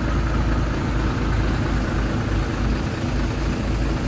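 Heavy machine's diesel engine running steadily at low revs, with a low, even drone and no sudden changes.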